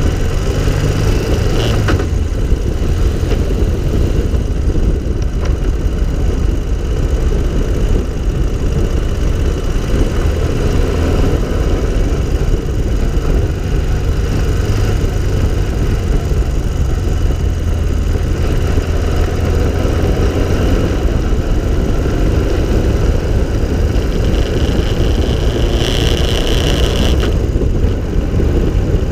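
An open three-wheeler cyclecar's engine running steadily at road speed, with a heavy low rumble of wind on the microphone. Near the end a brief higher-pitched sound cuts in for about a second.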